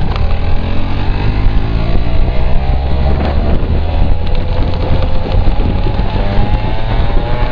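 Motorcycle engine running under way at speed, its pitch shifting about three seconds in and then climbing slowly, with wind buffeting the microphone.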